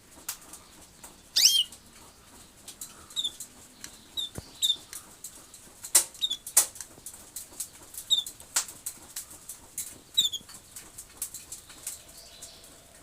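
Small birds giving short high chirps every second or so, with one longer sweeping call about a second and a half in, among many sharp taps and clicks.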